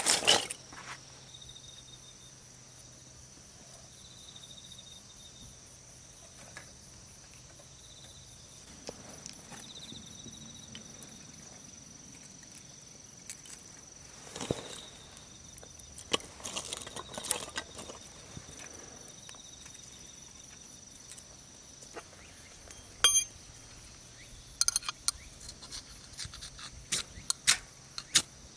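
Insects trilling steadily outdoors in a high, continuous buzz, with scattered clicks and knocks of objects being handled, more frequent near the end.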